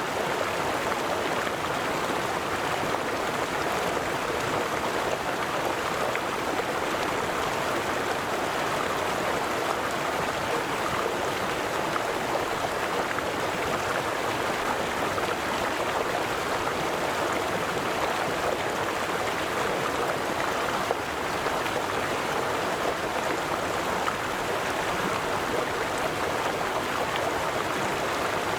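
A river flowing over stones, a steady rushing and babbling of water that holds even throughout.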